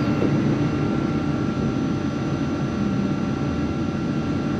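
Steady running noise inside the vestibule of a CrossCountry Voyager diesel multiple-unit train: a low rumble with a faint steady whine above it.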